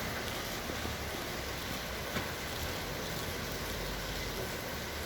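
Steady rain falling, an even hiss with a couple of single drops ticking.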